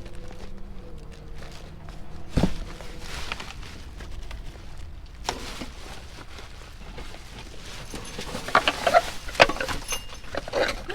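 Trash being shifted around in a dumpster: rustling and scattered knocks, with a thump about two seconds in and a cluster of clattering knocks near the end.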